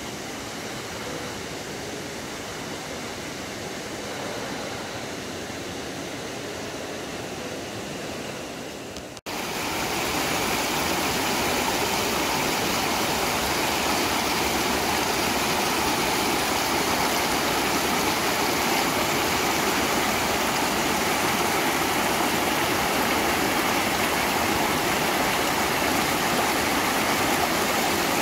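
Steady rushing of a mountain stream running over rocks. It comes in abruptly and louder about nine seconds in, after a quieter, steady hiss.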